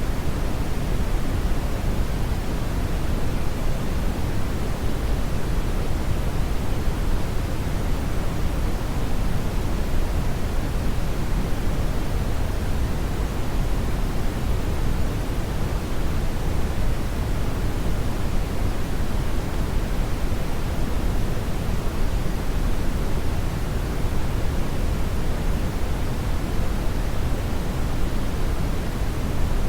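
Steady brown noise: an even, unchanging hiss weighted heavily toward the low end, like a deep rumble with the highs rolled off.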